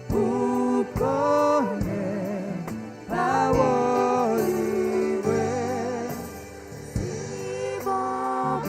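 Congregational gospel singing of a hymn with instrumental accompaniment, sung notes held and sliding between phrases over a steady bass.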